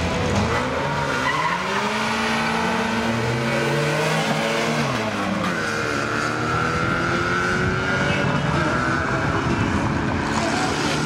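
Two cars launching off a drag-strip start line and accelerating hard away. Their engines rev up in pitch, drop at each gear change and climb again, fading slightly as they run down the strip.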